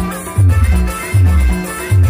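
Timli band music playing loud: a heavy bass beat repeating about every three quarters of a second, with a melody line over it.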